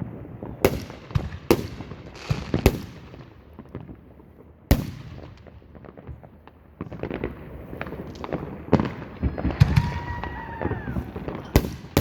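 Fireworks going off: sharp bangs from exploding shells every second or two, and a spell of rapid crackling from about seven seconds in.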